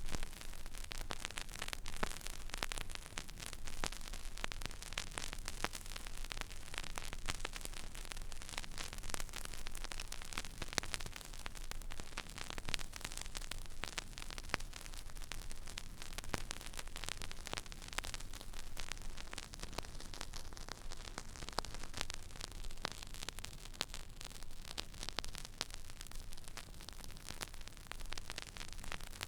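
Stylus riding an empty vinyl record groove: a steady surface hiss dotted with dense small crackles and pops, over a faint low hum.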